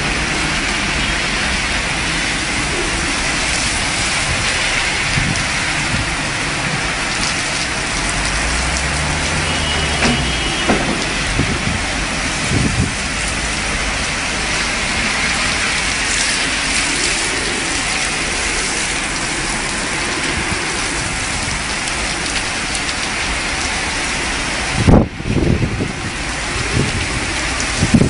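Torrential rain pouring steadily as a dense, even hiss. A few loud thumps come through it, the loudest about three quarters of the way in and again near the end.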